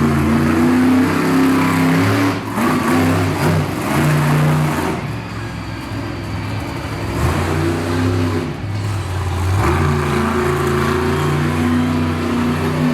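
Monster truck engine running hard in the arena, revving up and down with its pitch stepping between levels and briefly dropping off twice as the throttle is lifted.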